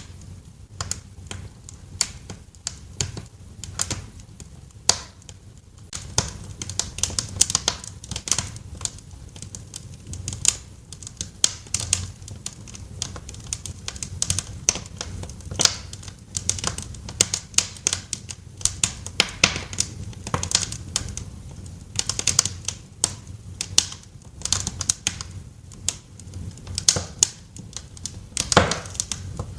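Wood fire in a fireplace crackling: irregular sharp snaps and pops over a low steady rumble, growing busier about six seconds in.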